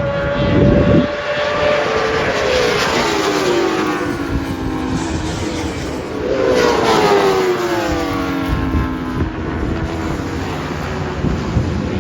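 Racing motorcycles going by at speed, their engine notes falling in pitch as each passes, twice in a few seconds.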